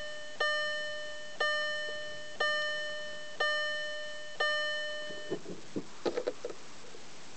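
Car dashboard warning chime ringing about once a second, five times, each strike fading away, in a 2000 VW TDI before its cold start. The chiming stops and a few short mechanical clicks and knocks follow near the end.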